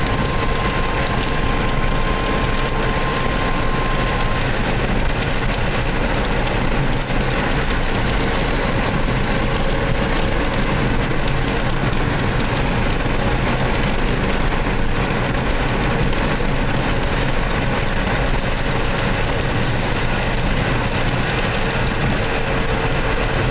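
Steady road, engine and wind noise inside a car driving at speed, with a thin steady tone for about the first four seconds.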